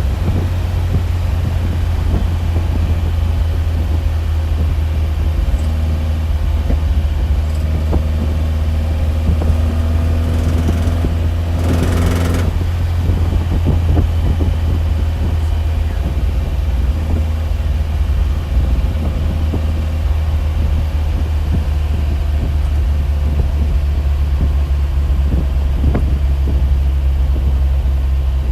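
A steady, loud, low rumbling drone, the unidentified strange noise, with a brief noisy swish about twelve seconds in; its pitch drops slightly around twenty seconds in.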